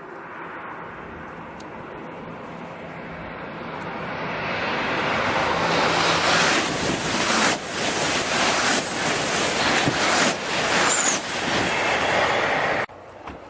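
Shinkansen high-speed train rushing past: a whoosh of air and running noise that swells over several seconds and stays loud for the second half, then cuts off abruptly near the end.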